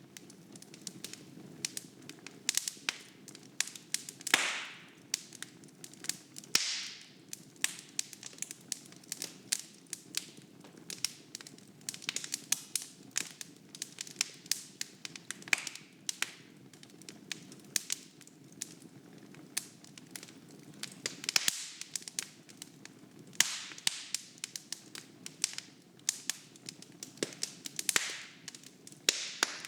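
Wood fire burning in a fireplace: irregular crackling and popping of burning logs, with a few louder pops followed by a short hiss, over a faint steady low rumble of the flames.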